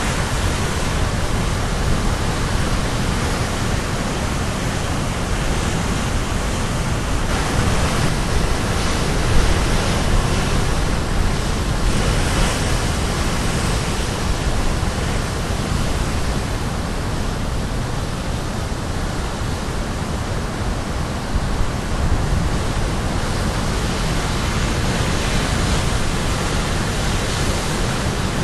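Sea waves breaking on a rocky shore, a steady rushing wash with gentle swells as each wave comes in. There is some rumble of wind on the microphone.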